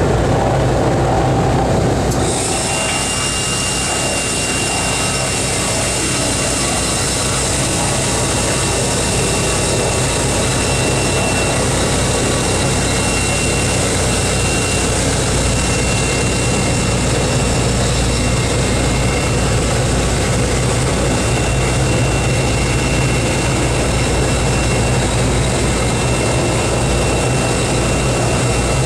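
Aircraft engines running steadily and loudly, with a high whine and hiss coming in about two seconds in.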